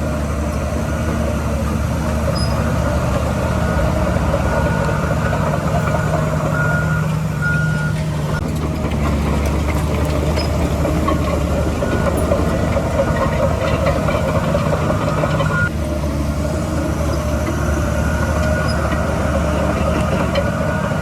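Heavy diesel construction machinery running steadily at a dirt-filling site, with a reversing alarm beeping on and off, mostly in the first half. About two-thirds of the way through, the engine note briefly dips and changes.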